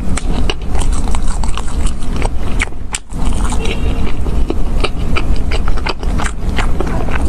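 Close-miked chewing of deep-fried, crumb-coated bread, with many small crisp crackles as the crust is chewed and torn, over a steady low rumble.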